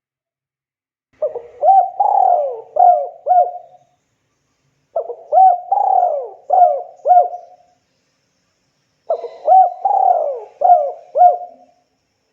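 Spotted dove (tekukur) cooing: three song phrases of several coos each, one starting a little over a second in, one in the middle and one near the end, with silence between.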